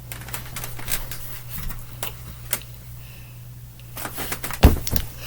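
Rustling and clicking, then a heavy thump a little before the end, followed by a few smaller knocks, over a steady low hum.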